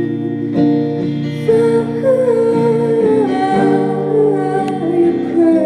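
Live music: held guitar chords with a woman's wordless, gliding vocal line between sung verses.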